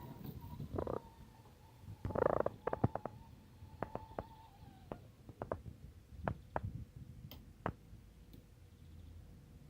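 Small electric drive motor of a converted pedal tractor humming faintly in short runs, under a low rumble with scattered irregular clicks and knocks.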